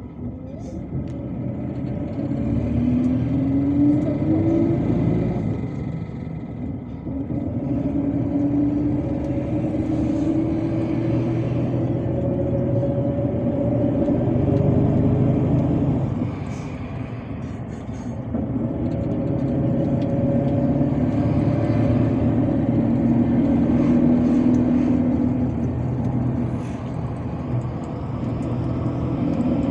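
MAZ-257 bus engine and drivetrain heard from inside the cabin while under way, the pitch rising steadily as the bus accelerates through each gear. It drops back at gear changes about six and sixteen seconds in, then climbs again.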